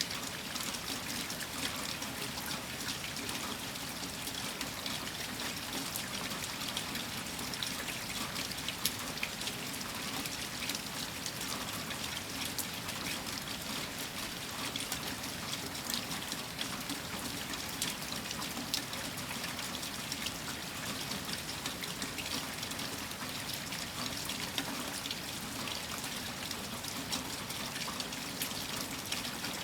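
Heavy rain falling steadily, with many individual drops ticking on hard surfaces and a trickle of running water.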